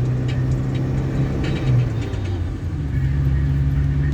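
Car engine and road noise heard from inside the cabin while driving, a steady low hum whose note shifts about two and a half seconds in.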